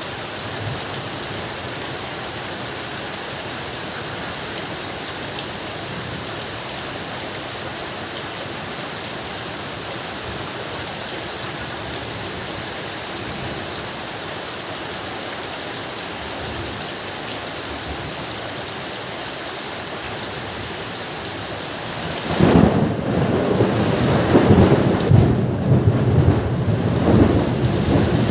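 Steady rain falling. About 22 seconds in, thunder breaks in over the rain, a loud low rumble that swells several times.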